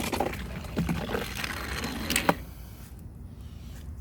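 Two die-cast Hot Wheels cars rolling and rattling down a plastic toy race track, with scattered clicks. A sharp clack comes a little over two seconds in, and then the rolling noise drops away.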